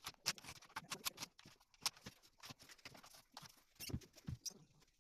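Faint, irregular light clicks and taps, a few a second, from hand work on a refrigerator under repair.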